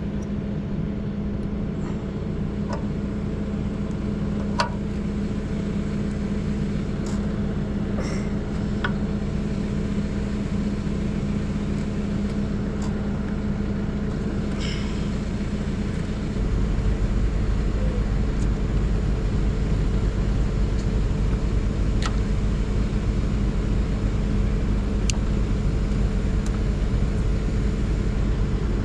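Diesel tractor engine idling steadily, with a few light metallic clicks from a wrench working on the chain sprocket. The low rumble grows louder a little over halfway in.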